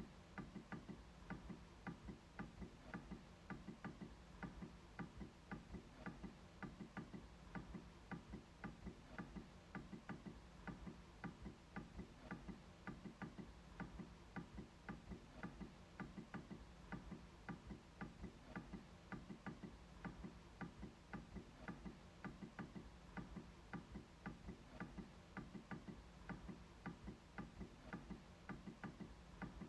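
MacBook trackpad being clicked over and over in a steady rhythm, about two to three faint clicks a second.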